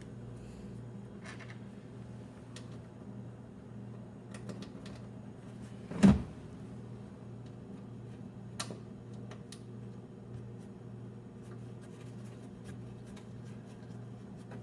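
Light clicks and taps of screws and small metal parts being handled while screws are fitted by hand, with one sharper knock about six seconds in, over a low steady hum.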